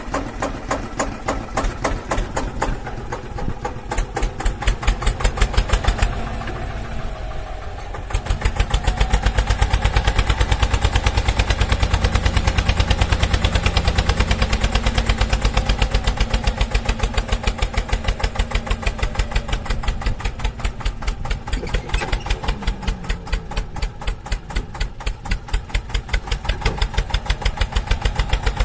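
Mahindra 475 tractor's diesel engine running with an even, rapid chug. About eight seconds in it gets louder and heavier for several seconds, as if working under load, then settles back.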